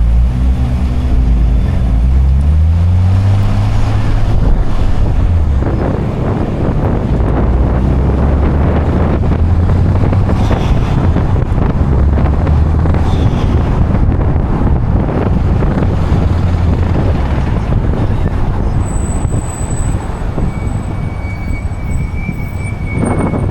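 Sports-car engine pulling up through the revs for the first few seconds, then a steady low drone of cruising, with tyre and road noise.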